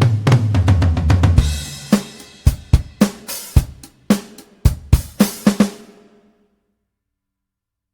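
Toontrack EZdrummer 3 sampled drum kit finishing a pattern. A tom fill steps down in pitch, a cymbal crashes, and a few more kick and snare hits follow before the kit stops about six seconds in.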